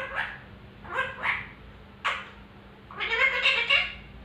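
Pet Indian parrot vocalising in short, pitch-bending squawks and chirps, then a longer warbling run of chatter about three seconds in.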